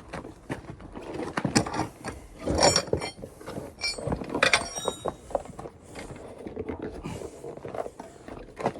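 Metal tools clattering and scraping on a motocross wheel's rim and spokes while the tyre is being worked off: an irregular run of clicks and knocks, a few with short metallic rings.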